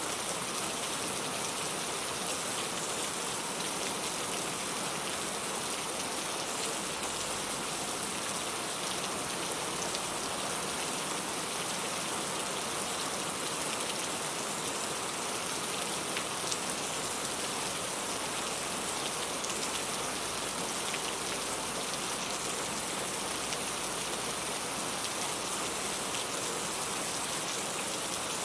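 Steady rain falling and pattering on a surface, an even hiss with many fine drop ticks.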